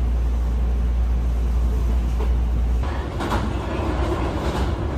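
Hankyu electric train running on the rails: a steady low rumble, then from about three seconds in a run of repeated clacks as the wheels pass over rail joints.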